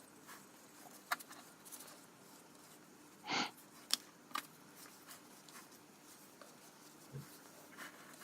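Faint handling sounds at a craft table: a few scattered small clicks and taps, and one short rustle a little over three seconds in, as paper scraps are glued down with matte medium.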